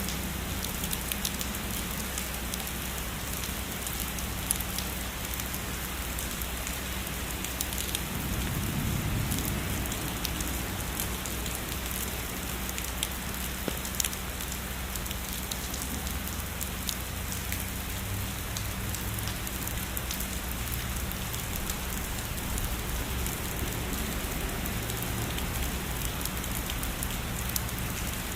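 Steady heavy rainfall, a dense even hiss with many individual drops ticking sharply on a surface, over a constant low rumble.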